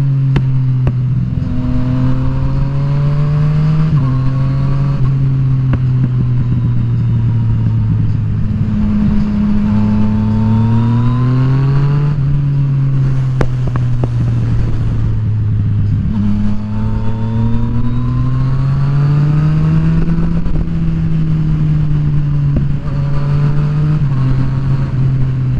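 Yamaha FZ-09's three-cylinder engine under way. Its note climbs in pitch several times, each climb broken by a sudden drop as the revs fall between pulls.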